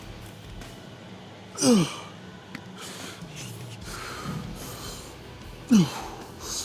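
A man grunting with effort twice, about four seconds apart, each grunt sliding down in pitch, with breathing between: straining through reps of a lift.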